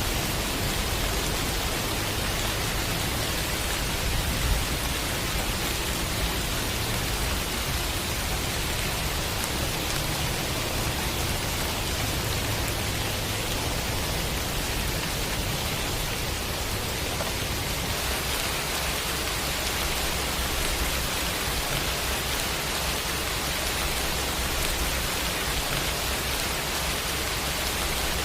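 Steady rain, an even, dense hiss with a low rumble underneath.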